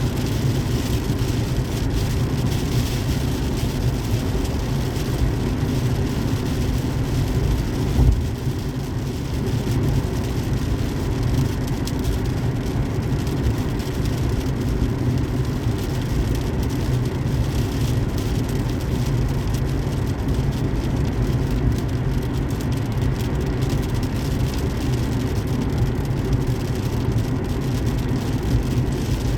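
Car driving on a highway: steady road and engine noise with a strong low rumble, and a brief thump about eight seconds in.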